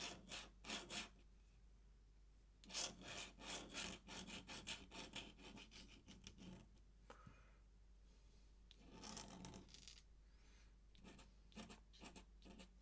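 Ink pen scratching across paper in faint runs of quick, short strokes with pauses between them, drawing small feather marks.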